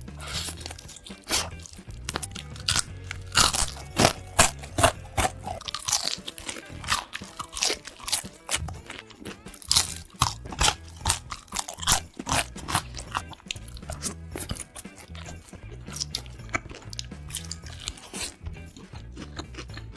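Loud, irregular crunching bites and chewing of crunchy food, over background music with a low, repeating bass line.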